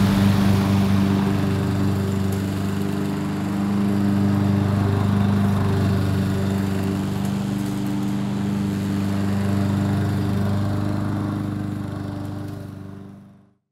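Kohler gasoline engine on a commercial lawn mower running steadily at an even speed, swelling slightly in level now and then, then fading out near the end.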